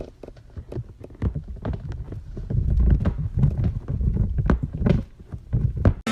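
A string of irregular knocks and thumps over a low rumble, busiest and loudest in the middle, stopping abruptly near the end.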